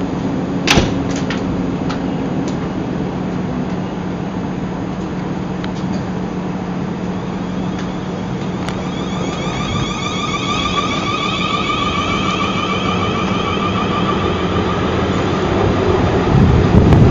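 South Western Railway electric multiple unit pulling out of the platform. A steady hum sits under the wheel noise, and from about nine seconds in the traction motors whine in several tones that step up in pitch as the train gathers speed. The low rumble of the wheels grows louder near the end, and there is a sharp click just under a second in.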